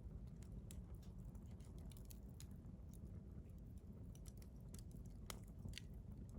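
Campfire wood crackling faintly: scattered small pops and snaps over a low, steady rumble, with a couple of sharper snaps a little past five seconds in.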